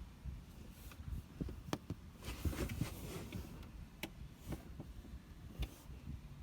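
Handling noise: scattered light clicks and knocks, with a stretch of rustling a little over two seconds in.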